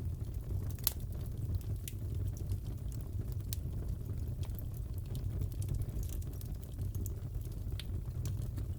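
Wood fire crackling in a fireplace: a steady low rumble of burning with scattered sharp pops and snaps every second or so.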